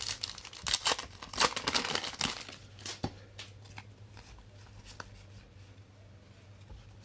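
A trading-card pack wrapper being torn and crinkled open over the first couple of seconds, followed by sparse light clicks and rustles as the cards are handled. A steady low electrical hum runs underneath.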